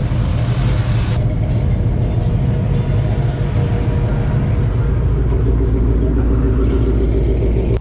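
Rat rod's engine running loud and steady while the car is driven, a deep rumble whose tone changes about five seconds in.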